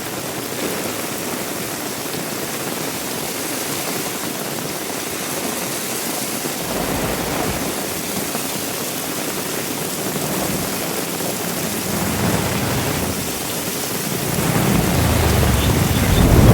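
Heavy rain falling steadily. A deep low rumble joins in partway through and grows louder toward the end.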